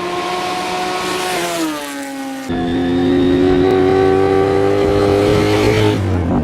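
1982 Suzuki GS1100E's air-cooled inline-four engine under way. Its pitch falls as the bike slows. About two and a half seconds in it gets louder, and its pitch then climbs steadily under throttle before cutting off abruptly near the end.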